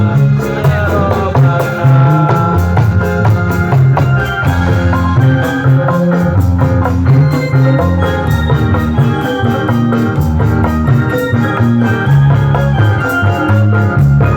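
Modern rebana ensemble playing an instrumental passage: a keyboard melody over frame drums and a strong bass line with a steady beat, no singing.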